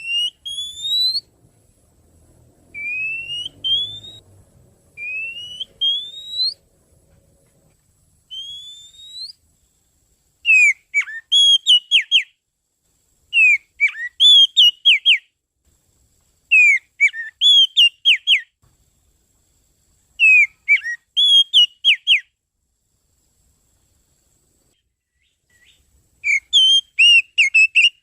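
Oriental magpie-robin (kacer) song played as a lure: four slow rising whistles, then short phrases of quick, sharp notes repeated about every three seconds, with a pause of a few seconds before the last phrase.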